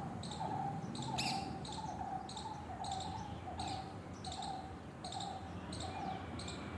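A bird repeating a short guttural call about twice a second, the notes evenly spaced, over a separate high chirping that pulses roughly every two-thirds of a second.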